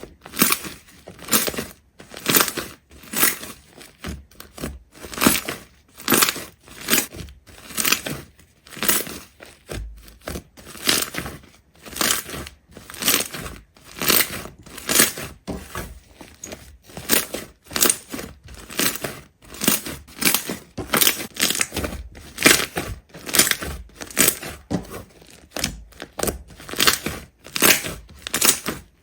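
Repeated crisp crunches and cracks, about one or two a second, each short and sharp, like something brittle being crushed or broken.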